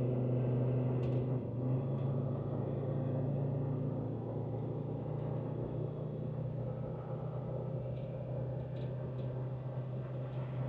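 Land Rover Discovery Td5's five-cylinder turbodiesel droning steadily while the vehicle is driven, heard from inside the cabin. The drone eases off slightly about four seconds in.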